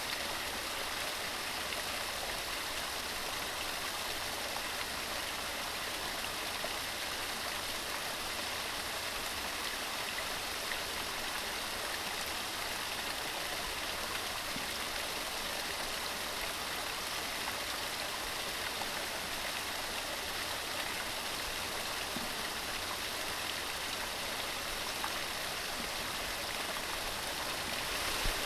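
Mountain stream running steadily over rocks: an even, constant rush of water.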